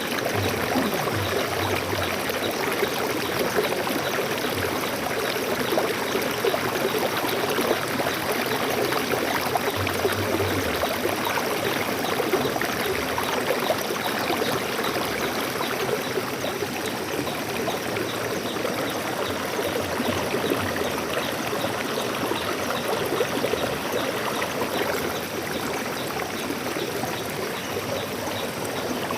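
A stream of water flowing steadily, an unbroken rush and splash with no pauses.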